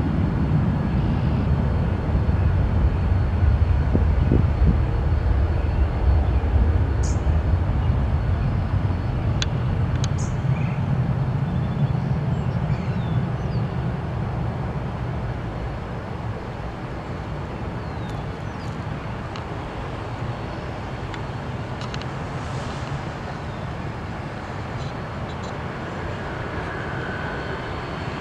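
Jet airliner engines, a low rumbling noise that is loudest in the first several seconds and then fades gradually as the aircraft moves away, leaving a steadier, quieter background roar.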